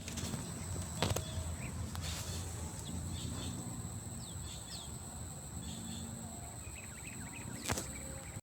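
Outdoor ambience: a low steady rumble with faint bird chirps, and two sharp clicks, one about a second in and one near the end.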